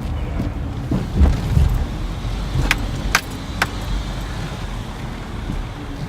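Steady low rumble of a car driving, heard from inside the cabin, with a few dull thumps early on and three sharp clicks about half a second apart near the middle.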